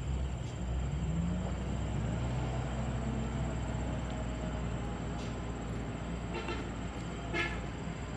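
Heavy truck's diesel engine running on a steep hill road, its pitch rising about a second in. Two short higher-pitched sounds come near the end.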